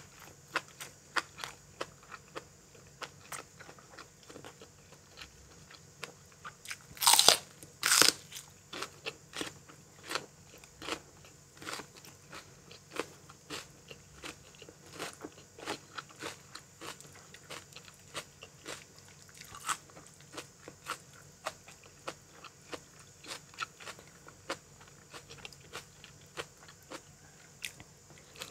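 A person eating crunchy food close to the microphone: a steady run of crisp crunches and chewing, with two much louder crunching bites about seven and eight seconds in.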